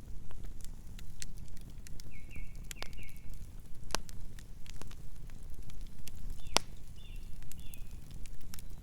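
Campfire crackling, with scattered sharp pops over a low steady rumble of burning; the loudest pops come about four and six and a half seconds in.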